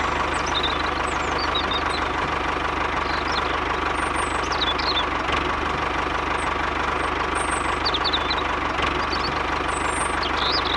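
Diesel tractor engine running steadily at idle, an even low knocking rhythm under a constant rumble.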